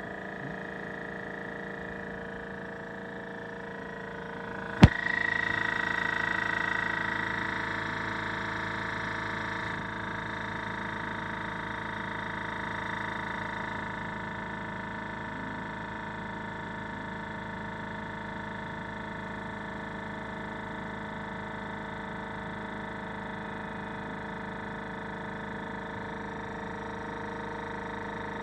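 Hitachi EC1443H high-pressure air compressor running steadily. About five seconds in there is one sharp click, after which the sound grows louder and slowly settles back over the next several seconds.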